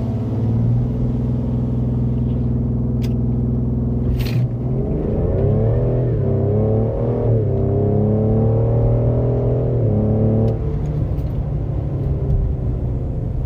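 2020 Ford Explorer ST's tuned 3.0-litre twin-turbo EcoBoost V6, heard from inside the cabin during a full-throttle 0-60 mph run. It holds steady revs for a few seconds, then the pitch climbs, dropping twice as the automatic gearbox upshifts. Near the end it eases off as the run finishes at about 60 mph.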